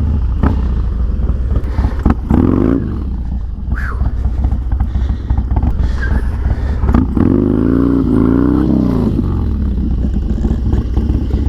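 Harley-Davidson Dyna FXDX V-twin engine running steadily, revved up and back down twice: briefly about two seconds in, then a longer rise and fall a little past the middle.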